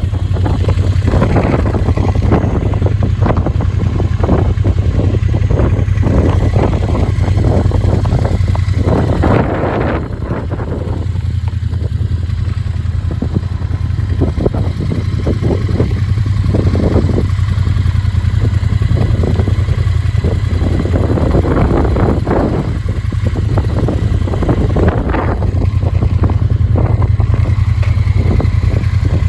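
Triumph Bonneville T120's 1200 cc parallel-twin engine idling steadily.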